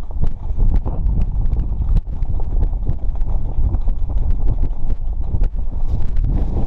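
Heavy wind rumbling and buffeting on the microphone, with frequent irregular sharp clicks and knocks.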